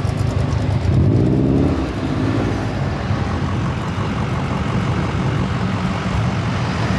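A car engine running, with a short rising rev about a second in before it settles back to a steady run.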